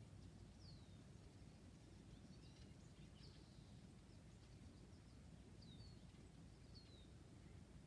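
Faint birdsong: a handful of short, high chirps and downward-sliding calls spread a second or more apart, over a low, steady background rumble.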